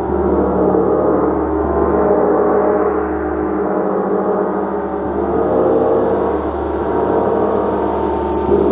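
A gong being played in a continuous wash: many overlapping, sustained tones that ring on together and gently swell and ease in loudness.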